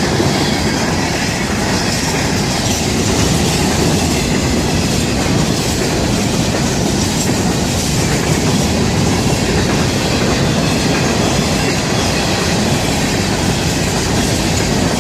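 Cars of a loaded freight rock train rolling past, steel wheels running on the rails in a steady, loud rumble.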